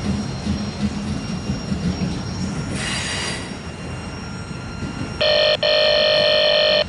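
Freight autorack cars rolling past with a rough low rumble and a brief hiss about three seconds in. Near the end a loud train horn sounds a steady chord of several notes for about a second and a half, with a very short break partway through.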